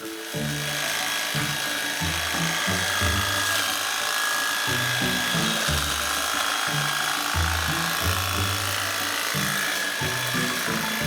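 A power hedge trimmer running steadily, under background music with a moving bass line.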